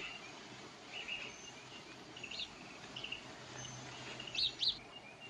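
A small bird chirping: scattered short high chirps, then a sharper pair of chirps near the end, over the hiss of an old film soundtrack.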